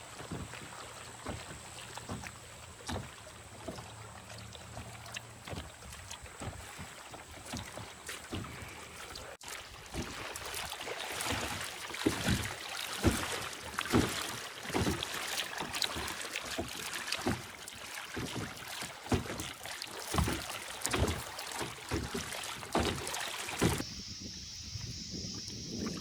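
Kayak paddle strokes dipping and splashing in lake water at a steady rhythm of about one stroke a second. Near the end it cuts to a quieter stretch with a steady high buzz.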